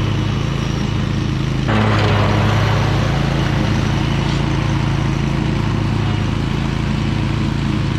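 Toro Titan Max zero-turn mower engine running steadily under load. About two seconds in it gets louder and a rushing noise swells up over the engine.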